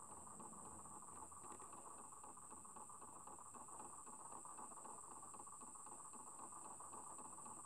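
Faint abnormal noise from a Ford T6 Ranger pickup's air-conditioning system with the vehicle switched off: a steady high-pitched hiss over a fast, fine fluttering rattle, unchanging throughout. It is a fault the dealer could not fix.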